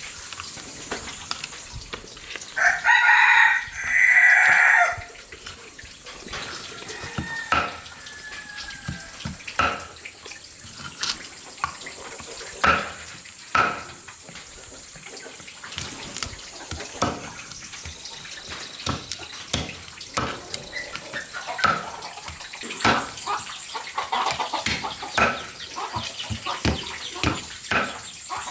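A rooster crows once, loud and in two parts, about three seconds in. Light knocks and clatters follow, scattered through the rest, over a steady high hiss.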